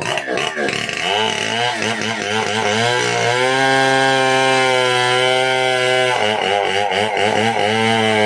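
Stihl 070 two-stroke chainsaw revving up and down several times, then held at a steady high speed for about three seconds. It drops back about six seconds in and revs up again to a steady pitch near the end.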